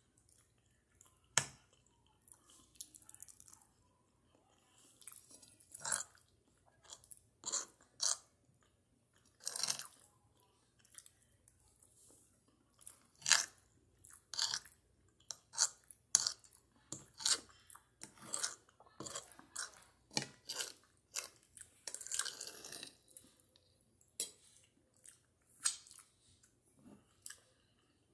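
Close-miked chewing of spaghetti: irregular wet mouth smacks and clicks, sometimes seconds apart and sometimes several a second, with a longer wet smacking stretch about four-fifths of the way through.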